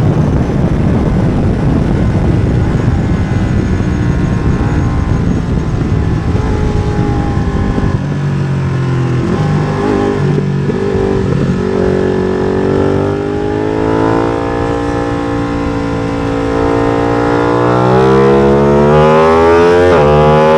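Ducati Streetfighter V2's 955 cc L-twin engine running at track speed through an MIVV exhaust with the dB killer removed. For the first eight seconds it runs rough and noisy. It then settles at lower revs with the pitch wavering, and from about halfway it climbs steadily as the bike accelerates hard. The pitch drops briefly just at the end, as at a gear change.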